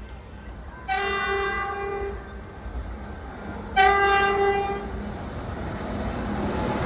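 Train horn sounding two blasts, each just over a second long and about three seconds apart; the second is louder. Underneath runs a low rumble.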